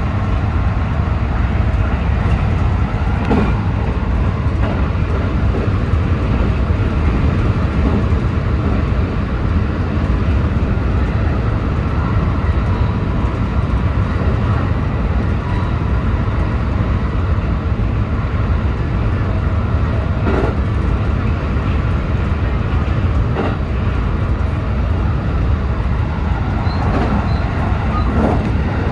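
JR West 223-series electric train running at speed: a steady rumble of wheels and running gear, with a few short clacks from the track.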